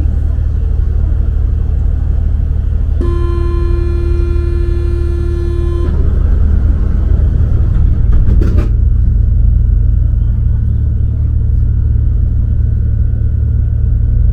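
Steady low rumble of a Paris Métro Line 1 MP 05 rubber-tyred train. About three seconds in, a steady electronic warning tone sounds for about three seconds, typical of the door-closing signal. It is followed a little past halfway by a short cluster of clicks and knocks, and the rumble grows a little louder.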